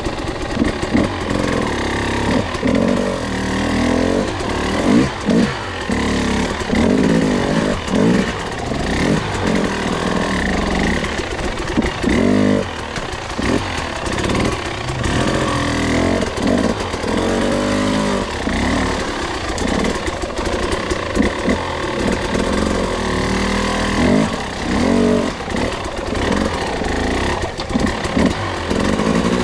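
Two-stroke enduro dirt bike engine under way on a trail, the revs rising and falling again and again in short bursts of throttle as the rider short-shifts for traction on slick ground.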